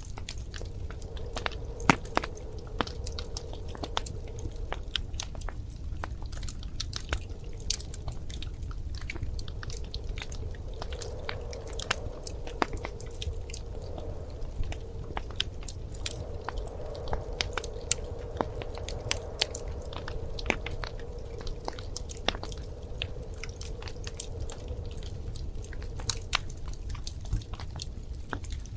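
Wood fire crackling in a fireplace: irregular pops and snaps, some sharper and louder than others, over a low steady rumble.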